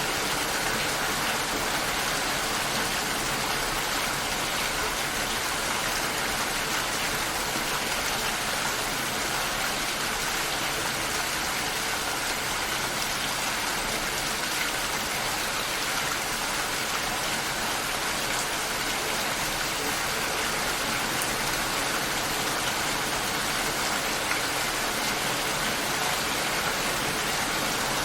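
Steady rain shower falling and pattering on surfaces, an even hiss that doesn't let up.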